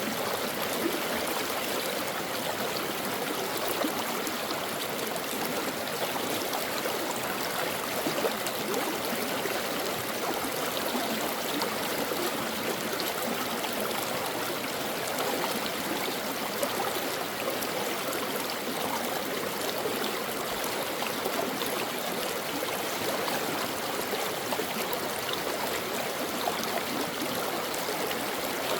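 Stream water flowing steadily over rocks, a continuous rushing and babbling with small splashes throughout.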